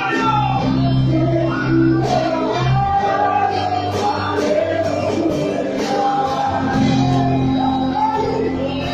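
Live church worship music: a voice singing over a band with bass and a steady beat.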